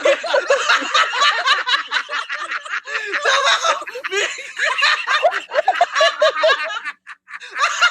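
People laughing hard in fits of giggles and snickers, breaking off briefly about seven seconds in.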